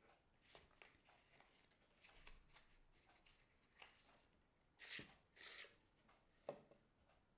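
Faint manicure handling sounds: light rubbing and small ticks, two short scratchy strokes about five seconds in, then a light click.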